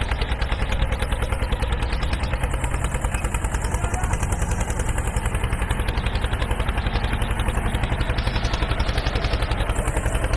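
Hand tractor (two-wheel power tiller) engine running steadily, with an even rapid beat of about ten pulses a second.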